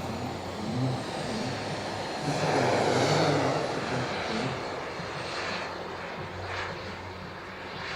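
Engine noise of an RC jet turbine plane in flight. It swells as the plane passes, loudest about two and a half to three and a half seconds in, then fades.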